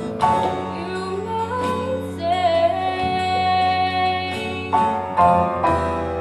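A song from a stage musical: a woman singing long held notes over guitar accompaniment.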